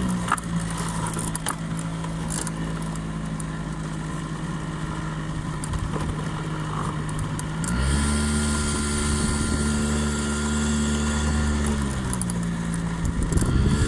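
Honda 50 cc scooter engine running, its note steady, then rising about eight seconds in, holding, dipping briefly and rising again near the end as the throttle changes.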